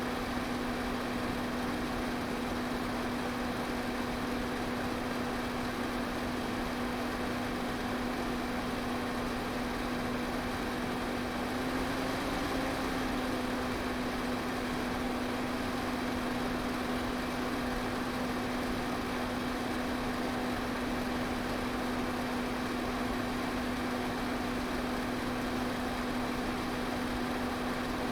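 Pedestal fan running steadily: an even rush of moving air over a constant motor hum.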